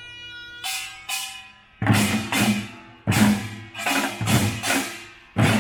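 Korean pungmul folk band playing: a held wind-instrument note, then two ringing strikes and a run of loud, unevenly spaced drum hits, about ten in under four seconds.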